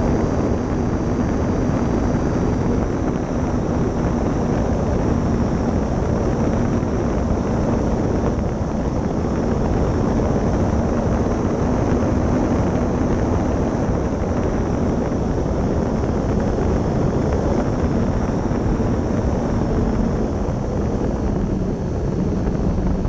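The twin 70 mm 12-bladed electric ducted fans of an RC jet running steadily in flight, with a high fan whine above a heavy rush of wind over an onboard microphone.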